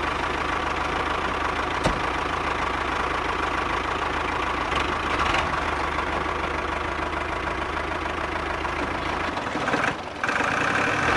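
A vehicle engine idling steadily, with a short click about two seconds in; the sound dips briefly near the end and then resumes.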